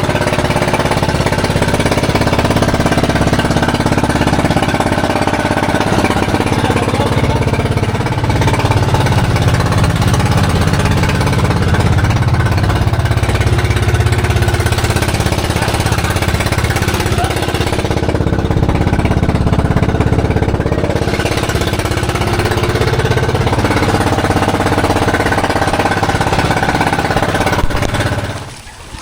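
Small fishing boat's engine running loud and steady under way, easing slightly about two-thirds through and cutting off abruptly near the end.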